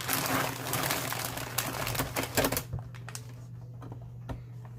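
Cardboard cereal box being handled and cut with scissors: dense rustling with rapid clicks for the first two and a half seconds, then a few scattered clicks. A low steady hum runs underneath.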